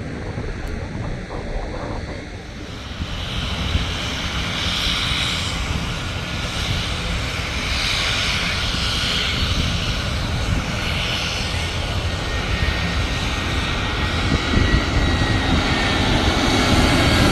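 Airliner on final approach coming in low over the beach to land. Its engine noise builds steadily and grows louder toward the end, with a thin whine in it.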